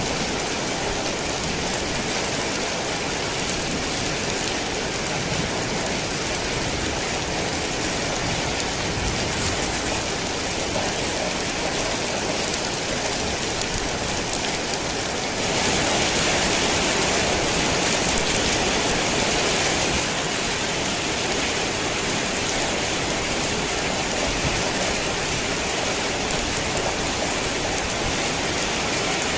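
Heavy rain falling in a steady, dense hiss. It briefly grows louder for a few seconds about halfway through, then settles back.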